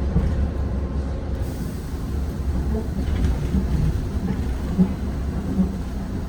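Steady low rumble inside a Zhongtong N12 bus as it runs, with a couple of light knocks in the second half.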